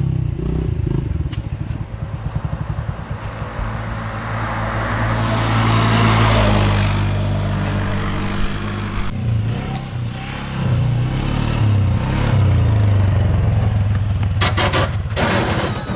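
Pit bike engine running and revving, rising to its loudest about six seconds in, easing off, then holding steady.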